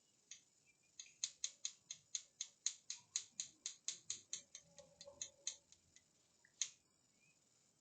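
A quick, even run of about twenty light clicks, four or five a second, for about four seconds, then a single click near the end.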